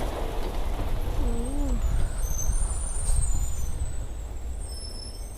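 Snowplow truck's engine running as it drives by, a low rumble that fades as the truck moves away.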